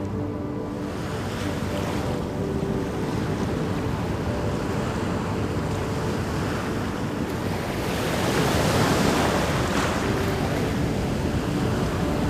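Ocean surf: waves breaking and washing ashore, with one wave surging loudest about eight seconds in.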